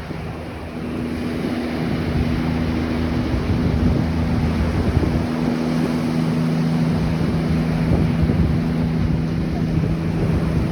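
Ocean surf washing on a beach, with wind buffeting the microphone. Under it runs a steady low engine drone, typical of a motorboat offshore.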